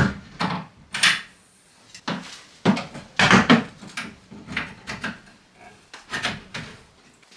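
Irregular wooden knocks and clatter from wardrobe cabinet parts being handled and fitted, about a dozen sharp hits over several seconds.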